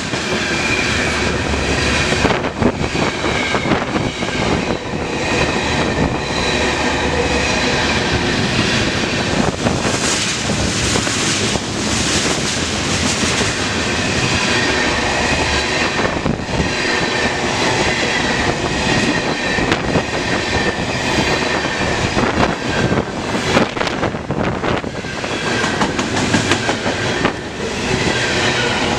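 CN freight train of covered hoppers and tank cars rolling past close by, its steel wheels clattering over the rail joints in a steady clickety-clack, with high metallic squeal tones coming and going.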